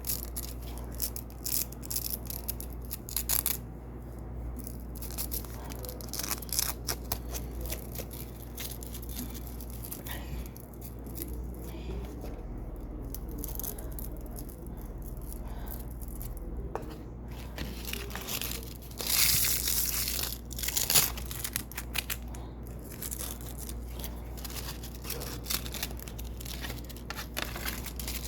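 Double-sided Velcro strips being peeled off and pressed onto hook-side Velcro: irregular crackling rips one after another, with louder, longer rips about 19 to 21 seconds in.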